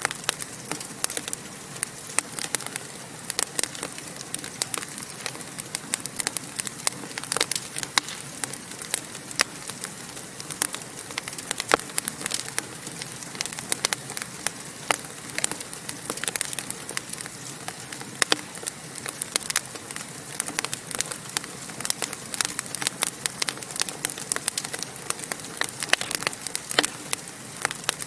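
Wood fire burning in a fireplace, with a steady hiss and frequent irregular crackles and pops.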